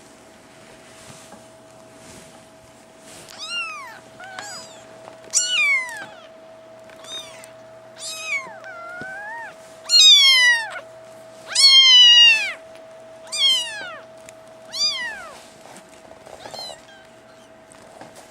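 Kittens mewing over and over: about ten high-pitched mews, each rising briefly and then falling in pitch, loudest around the middle.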